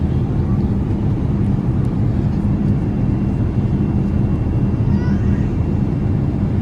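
Steady, loud rumble and hum of a Boeing 787-8 airliner heard from the passenger cabin, with the engine and airflow noise holding an even level. A faint voice is heard briefly about five seconds in.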